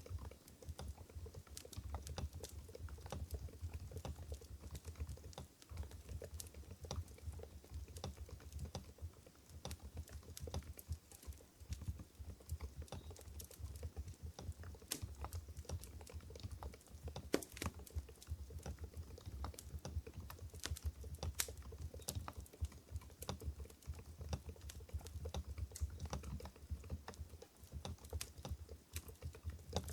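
Continuous fast typing on an Mstone Groove GV10 mechanical keyboard fitted with low-noise Coral switches (45 g): soft, muted keystroke clicks in an irregular stream.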